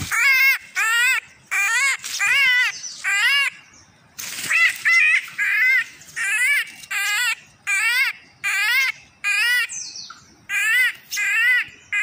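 A bird calling over and over: short, harsh squawks with a rapidly wavering pitch, roughly one every half second, pausing briefly twice.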